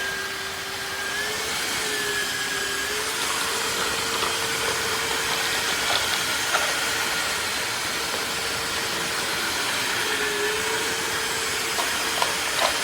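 Tineco iFLOOR 3 cordless wet-dry vacuum mop running: a steady motor whine over rushing suction, its pitch shifting a few times as the automatic suction changes level with the mess. A few small clicks near the end.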